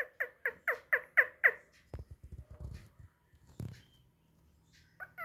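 Pet parrot calling: a quick run of short, falling squawks, about four a second, for the first second and a half. Then come low bumps and rustling and a single knock, and another call starts near the end.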